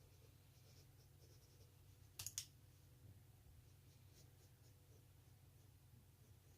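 Near silence with faint pencil strokes on paper. Two quick sharp clicks close together about two seconds in.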